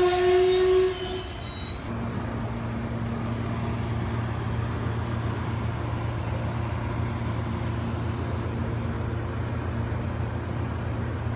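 Amtrak passenger train cars rolling past, with a high, steady wheel squeal that cuts off about two seconds in, followed by a steady low rumble and hum from the moving train.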